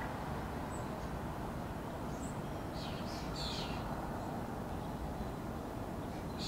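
A few short, high bird chirps, bunched mostly about three seconds in, over a steady low background rumble.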